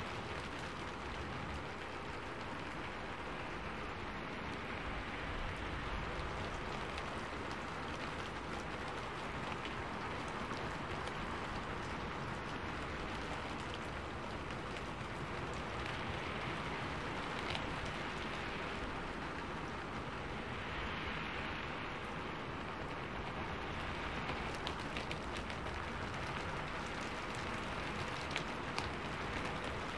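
Rain falling steadily, with scattered sharper drop hits standing out from the even hiss.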